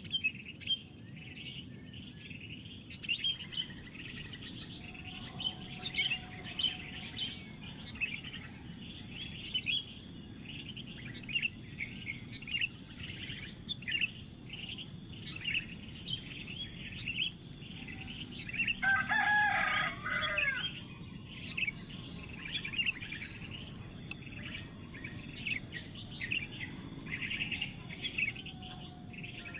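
Small bird chirping over and over in short calls, about one or two a second, over a steady high insect buzz. About two-thirds of the way through, a louder call lasting about a second and a half, with the pattern of a rooster crowing, cuts in.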